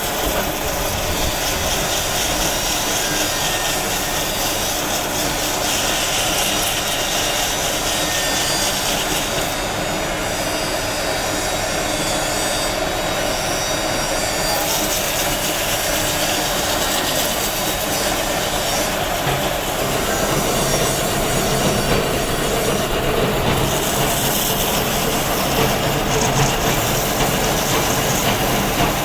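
Steady, loud noise of a power tool working stone, running on without a break.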